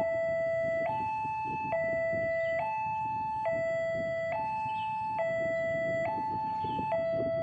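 Railway level-crossing warning alarm sounding an electronic two-tone signal, alternating between a low and a high note about every 0.85 s, which warns that a train is approaching. The rumble of waiting road traffic runs underneath.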